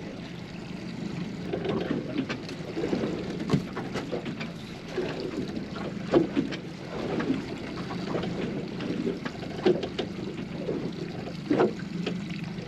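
Water slapping and sloshing against a small fishing boat's hull, over a steady low hum, with scattered short knocks and clicks.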